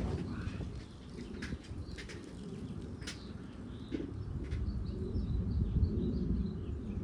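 Outdoor ambience: a steady low rumble with faint birds chirping, a few small chirps coming more often in the second half.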